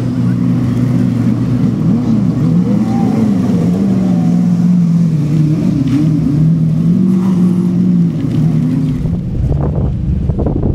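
Car engines revving and easing off in turn as cars are driven hard around a cone course, the pitch rising and falling every second or so. Near the end this gives way to wind buffeting the microphone.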